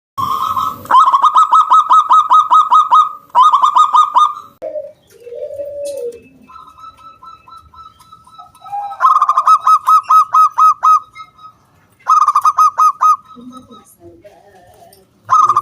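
Zebra dove (perkutut) singing its clear, round 'kung' cooing in rapid runs of repeated notes, about nine a second, in several bursts separated by short pauses. This is a lure call that prompts other zebra doves to answer and sing.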